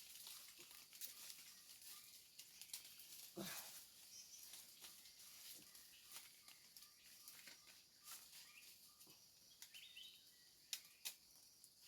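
Near silence: faint outdoor forest ambience with a thin, steady high tone, a few soft clicks and one or two faint bird chirps.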